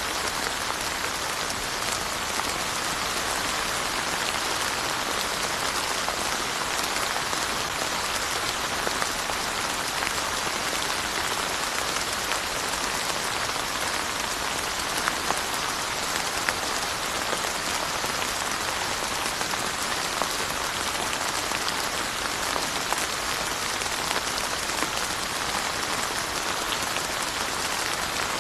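Steady rain falling, a dense even hiss of drops with many small individual drop ticks scattered through it.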